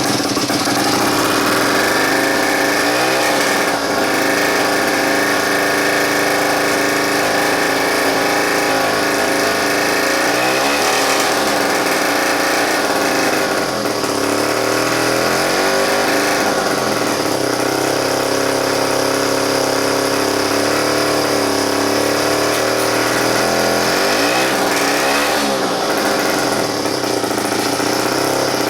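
Small air-cooled two-stroke Tecumseh power head of a Schnake Mid-Jet water-jet outboard running steadily, its speed briefly dipping and picking up again a few times.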